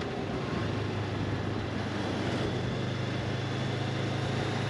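Honda CB500X parallel-twin engine running at a steady cruise, with a constant rush of wind and road noise over it.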